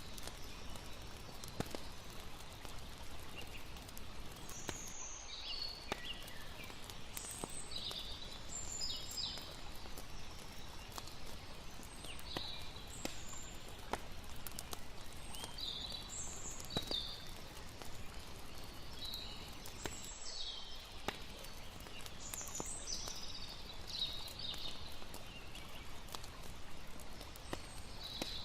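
Layered night ambience: a steady rush of water under scattered sharp campfire crackles, with short high chirps every second or so.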